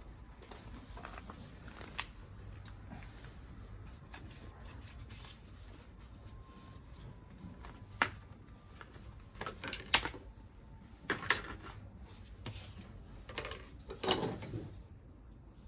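Scattered clicks and light metal knocks of hand tools and engine parts being handled while parts are removed from a scooter engine. Louder sharp knocks come about eight, ten, eleven and fourteen seconds in.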